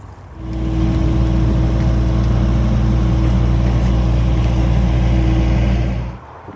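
An engine running at a steady speed, loud and even, starting about half a second in and cutting off abruptly near the end.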